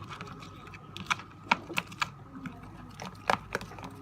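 A stirring tool clicking and tapping against a small container as slime is stirred with activator: a series of irregular sharp clicks.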